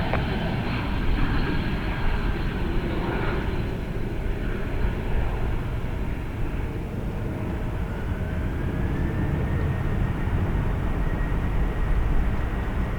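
Jet airliner engines running: a steady low rumble with a faint whine that rises about eight seconds in and then holds.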